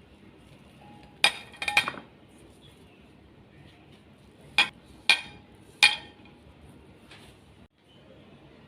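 Kitchen utensils clinking against a dish: a few sharp clinks, two close together near the start, then three about half a second apart in the middle and a lighter one near the end.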